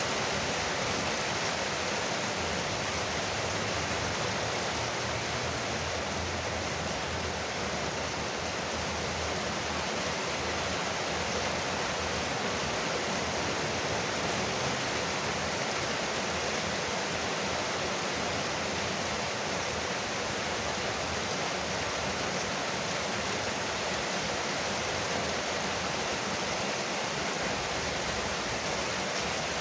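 Rain falling steadily on a porch roof, an even, unbroken hiss of drops.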